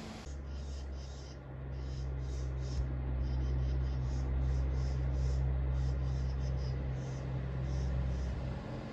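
Truck engine running at a steady low drone, with faint scratching or rustling over it.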